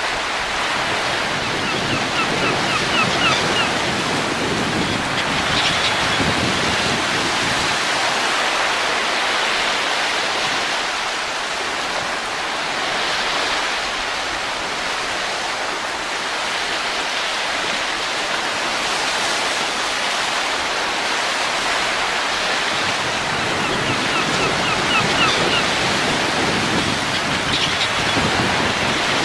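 Recorded wind: a steady rushing noise that swells and eases in slow gusts. Twice a faint quick run of high ticks sounds over it.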